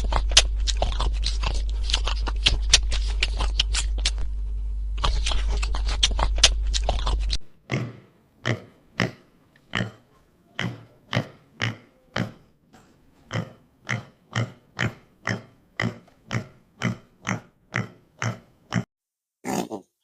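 A pig grunting. For the first seven seconds or so the grunts come in a dense crackly stretch over a steady low hum, which cuts off suddenly. After that come short grunts in a steady rhythm, about two a second, then a brief pause and one more grunt near the end.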